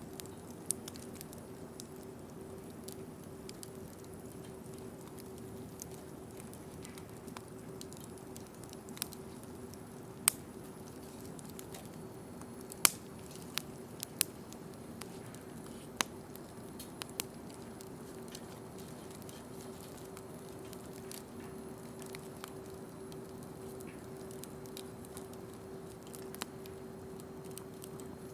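Wood bonfire crackling, with scattered sharp pops and snaps, most of them bunched in the middle, over a steady low hum.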